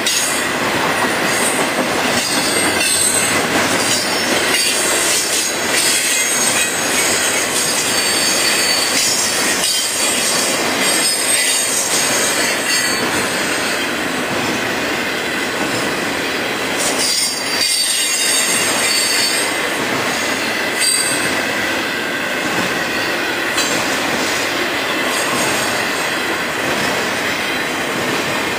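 Intermodal freight train of trailers on flatcars rolling steadily past, its wheels and cars rumbling and clattering on the rails. A high-pitched wheel squeal comes and goes several times.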